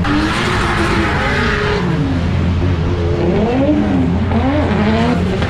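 Drift car engine revving up and down repeatedly as it is worked through a slide, over a steady low engine drone, with a rush of tyre noise in the first two seconds.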